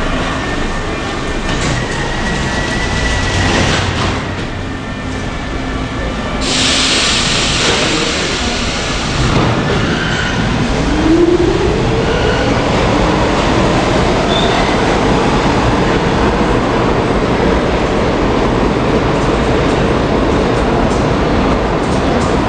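New York City subway L train pulling out of the station. About six and a half seconds in there is a sudden loud hiss of air. From about ten seconds in, the motors give a whine that rises in pitch and then levels off as the train picks up speed, over a steady rumble of the wheels on the rails.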